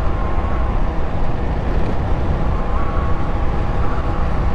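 Ice Bear Hawkeye 150cc GY6 scooter running at steady speed, its single-cylinder engine and drive heard from on board with wind rumbling on the microphone.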